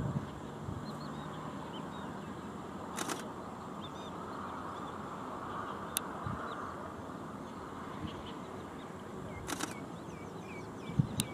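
Steady outdoor background noise with many short, faint, high bird chirps scattered through it. Two brief rasps, about three seconds in and again near ten seconds, and two sharp clicks, about six seconds in and near the end.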